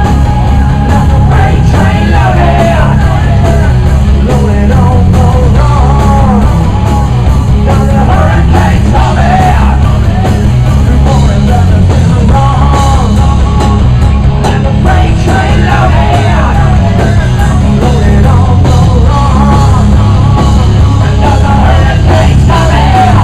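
Live rock band playing at full volume, the low end booming.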